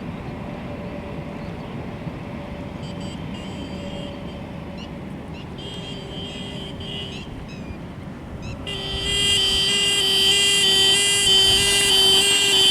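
A steady low rumble with a few short high toots, then about nine seconds in a train horn starts a loud, long, steady blast that is still sounding at the end.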